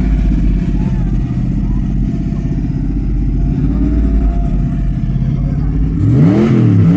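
Car engines running with a deep, steady rumble, then about six seconds in one engine is revved sharply up and back down.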